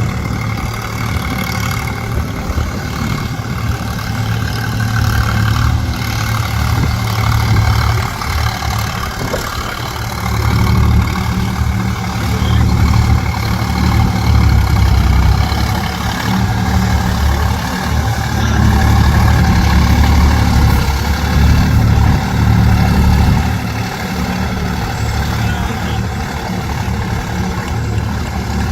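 Sonalika DI 47 4WD tractor's diesel engine running as it works through mud, a steady low engine sound that swells louder through the middle and eases back near the end.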